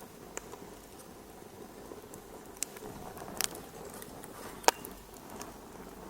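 Wood fire in a fireplace crackling: a low steady hiss with a few scattered sharp pops, the loudest a little past the middle.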